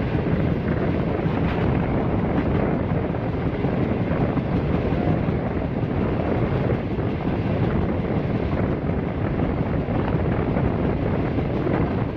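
Steady rush of wind and the rolling rumble of a moving express passenger train, heard with the microphone held out beside the coach, wind buffeting the microphone.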